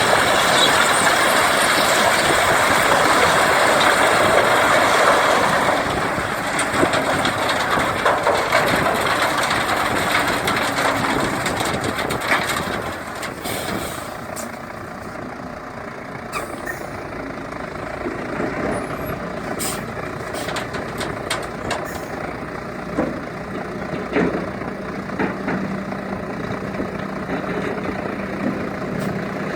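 Gravel dump truck unloading: a loud rushing noise for about the first six seconds that fades away over the next several, then the truck running more quietly with scattered knocks and clanks.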